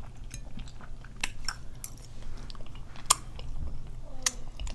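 A person chewing close to the microphone, with scattered wet mouth clicks and smacks while eating fresh mango.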